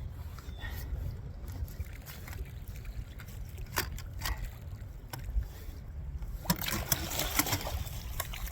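Wind buffeting the microphone as a steady low rumble, with water lapping against a small fishing boat. A few sharp knocks come midway, and a quick cluster of them near the end.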